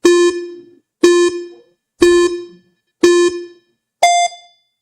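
Countdown timer sound effect beeping once a second: four short, buzzy, low-pitched beeps that fade quickly, then a single higher-pitched beep about four seconds in that signals the time is up.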